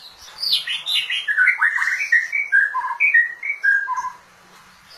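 White-rumped shama (murai batu) singing a quick run of varied whistled and chirped notes that lasts about three and a half seconds.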